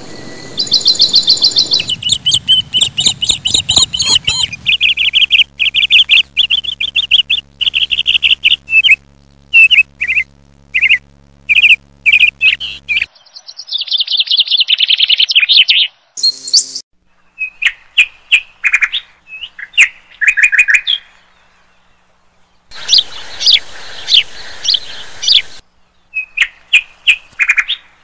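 Birds chirping and whistling in rapid runs of short high notes, loud and busy; the calls break off and restart abruptly several times.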